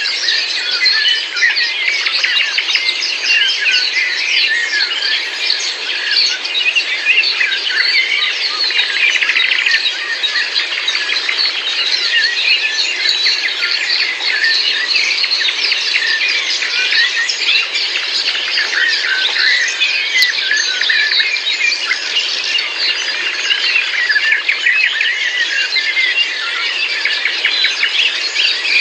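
Dense chorus of many birds chirping and singing at once, a steady, unbroken tangle of short high calls and trills.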